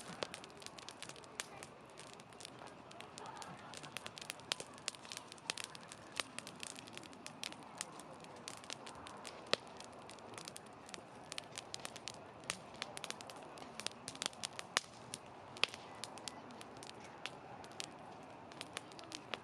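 Wood campfire burning, crackling with many sharp, irregular pops over a soft steady hiss.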